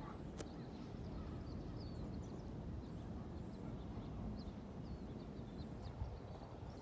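Small birds chirping faintly and intermittently over a steady low rumble, with one sharp click about half a second in.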